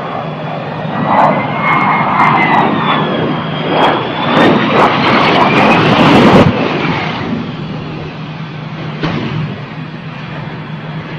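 Aircraft engine noise with a whine that rises and falls, growing louder and then cutting off suddenly about six and a half seconds in, followed by a steadier, quieter engine sound with a low hum.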